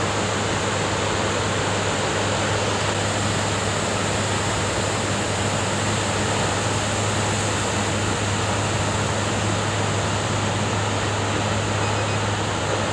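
Steady roar of big ocean surf breaking on a reef, an even unbroken wash of noise, with a steady low hum underneath.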